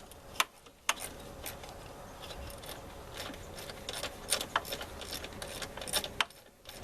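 Scattered light metallic clicks and clinks from hand tools and small hardware while the headlight bracket's 8mm bolts are worked on.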